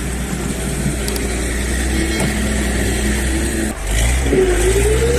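Heavy diesel engine of a TT-4 crawler tractor running steadily under load during a truck recovery pull. About four seconds in the sound shifts, and a whining pitch rises and wavers.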